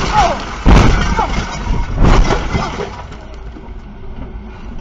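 Vehicle collision: loud crashing impacts about a second in and again about two seconds in, each trailing off, with the tail of an earlier impact at the start; after about three seconds only the lower background remains.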